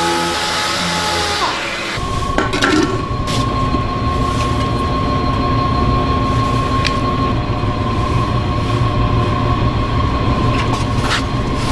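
Machinery running with a steady hum that winds down about a second and a half in. A different machine's steady low rumble follows, with a thin high whine and a few sharp clicks.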